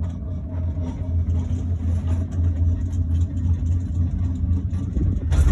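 Steady low rumble of a moving cable-car gondola heard from inside the cabin, growing louder and noisier near the end.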